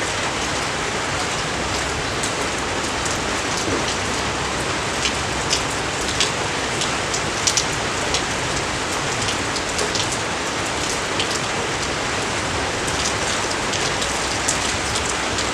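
Steady rain falling, an even hiss with individual close drops ticking sharply now and then.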